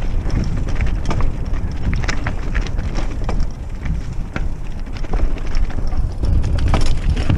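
Mountain bike rattling over a rough off-road trail, with many quick knocks and clicks over a constant low rumble of wind and vibration on the action camera's microphone.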